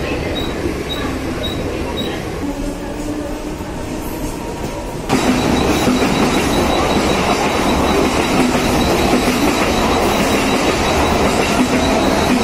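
Mumbai suburban local train running on the rails. About five seconds in, the sound suddenly gets louder and stays that way.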